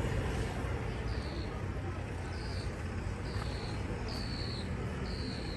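A short, high call repeated five times, about once a second, each falling slightly in pitch, over a low outdoor rumble.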